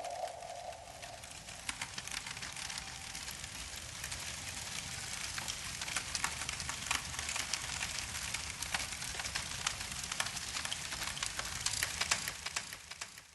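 Rain falling mixed with a crackling fire: a steady patter with many sharp pops and snaps. It fades out at the end.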